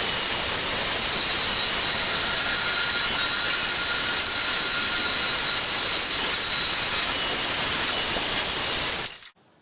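Bandsaw cutting through a steel bar, a steady loud rushing noise with a thin high whine over it that cuts off suddenly about nine seconds in.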